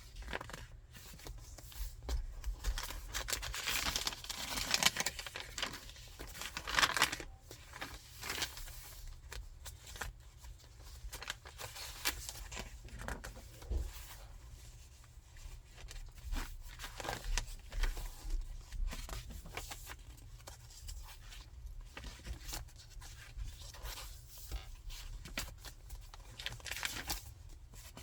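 Thick paper pages and flip-outs of a chunky handmade junk journal being turned and handled: irregular rustling and crinkling with small taps, loudest about four to seven seconds in.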